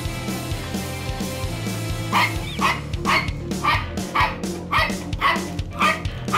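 Yorkshire terrier barking in quick succession, about two sharp barks a second starting about two seconds in, excited by a toy mouse held in front of it. Background music plays underneath.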